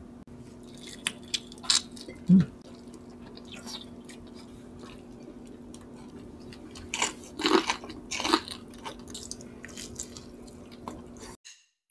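Close-miked chewing and biting of boiled native chicken by two people: irregular wet smacks, clicks and sucking sounds, busiest about seven to eight seconds in. A single low thump about two seconds in, over a steady low hum.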